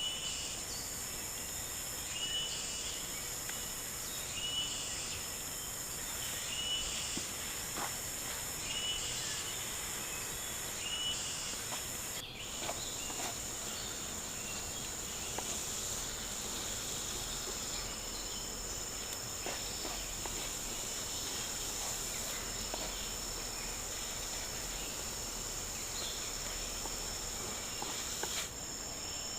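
Rainforest insect chorus, a steady high-pitched buzzing drone. During the first half a short chirp repeats about every two seconds.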